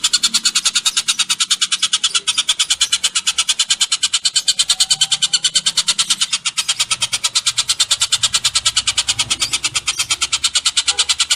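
Bird call in a fast, even rattling trill of short high notes, about nine a second, kept up without a pause.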